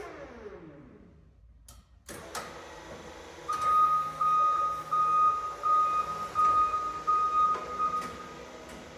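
Electric motor whine of a 2009 Flexi G4 battery forklift falling in pitch and dying away in the first second. After a click about two seconds in, its warning beeper sounds a steady run of about eight long beeps, then stops near the end.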